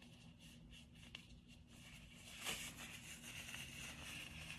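Faint rustling and small clicks of disposable gloves being peeled off the hands, a little louder from about halfway through.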